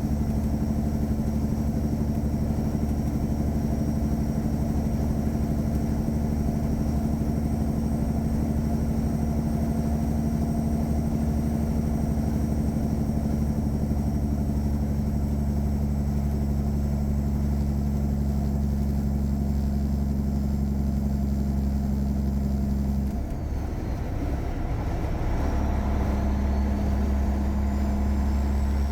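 Caterpillar 3406E inline-six diesel truck engine pulling steadily on the road. About 23 seconds in, the engine note drops away for about two seconds, as in a gear change, then comes back at slightly lower revs with a faint rising whine as it picks up again.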